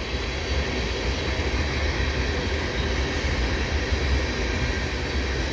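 Freight train tank cars rolling past, a steady rumble of wheels on rail.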